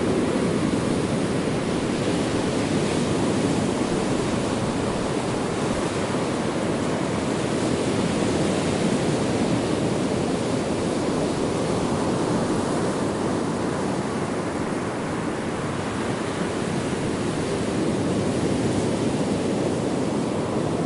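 Ocean surf washing ashore: a continuous rushing wash that swells and eases slowly, dipping a little about two-thirds of the way through.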